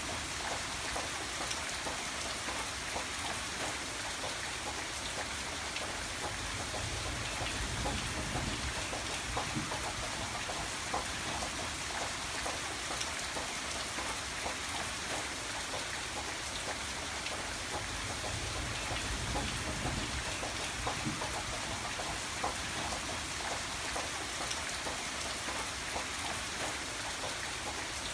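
Steady rain falling on a surface, with many separate drops ticking over an even hiss and a low rumble that swells slightly now and then.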